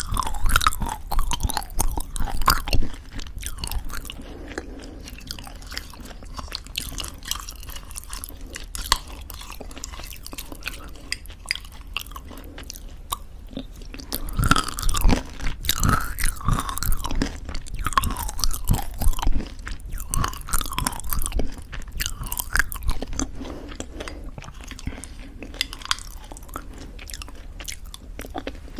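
Close-miked eating of thick yogurt with homemade granola: crunchy chewing of the granola clusters and sticky, wet mouth sounds from the yogurt. Louder crunching comes in the first few seconds and again about halfway through, with softer chewing between.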